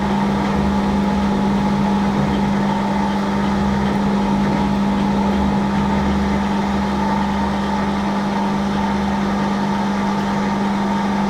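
Hafco AL960B metal lathe running steadily under load while drilling a hole in the knob stock, with a constant motor and gear hum.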